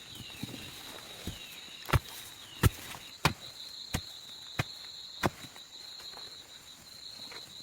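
Six sharp knocks, evenly spaced at about one and a half a second, in the middle stretch, over a steady high insect trill.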